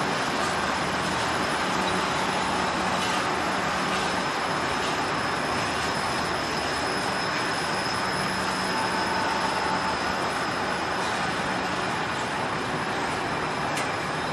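Passenger train coaches rolling past on the rails, a steady noise of wheels on track as the train pulls out of the station.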